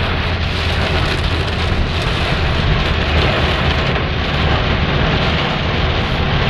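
Heavy rain falling in a steady, dense hiss, with a low rumble underneath.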